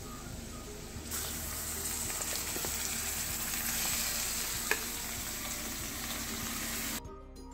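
Marinated chicken pieces sizzling as they go into hot oil with fried onions in an aluminium kadai. The frying hiss grows louder about a second in as the chicken hits the oil, there is one sharp clink about two-thirds of the way through, and the sound cuts off abruptly near the end.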